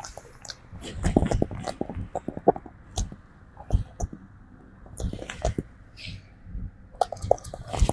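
A monkey grooming a person up close: irregular wet clicks and smacks, with quieter gaps in between.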